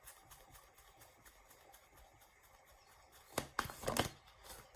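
Quiet room tone, then a short flurry of tarot cards being handled, with a few sharp card snaps and rustles about three and a half to four seconds in.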